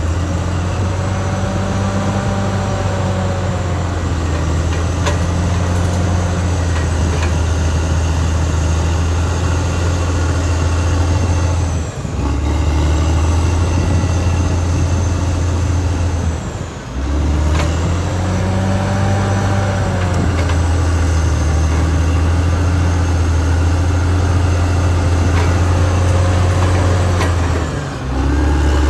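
Caterpillar D6R XL bulldozer's diesel engine running steadily under load, a loud low drone that dips briefly about three times. A fainter whine rises and falls twice over it.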